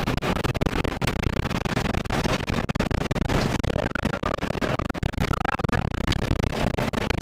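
Violent tornado wind buffeting the microphone: a loud, choppy rush of noise, heaviest in the low end, that flutters and cuts in and out many times a second.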